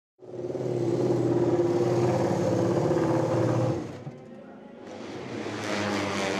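Racing motorcycle engine running at high, steady revs, cutting off about four seconds in; about a second later another engine sound builds up.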